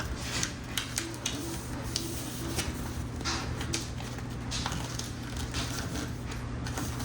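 A sheet of paper being folded and creased by hand into a paper airplane: irregular short rustles, crinkles and swishes, over a steady low hum.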